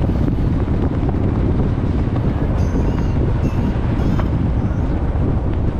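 Motorcycle riding at speed, with a steady wind rumble on the microphone.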